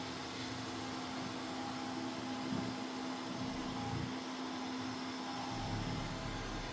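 Mova Z60 robot vacuum-mop running over a hard floor: a steady motor whir and hum. The hum tone drops out shortly before the end, and a few soft low thuds come through.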